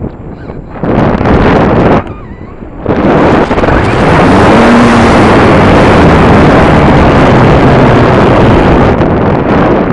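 Wind rushing over a camera microphone, loud and even. It drops away briefly twice early on, then settles into a steady, unbroken rush.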